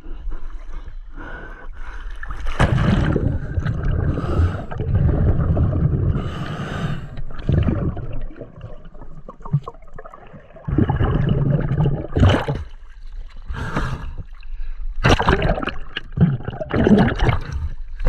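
Scuba diver breathing through a regulator underwater: long rushing breaths with gurgling exhaled bubbles, then quicker, sharper bursts of bubbles in the second half.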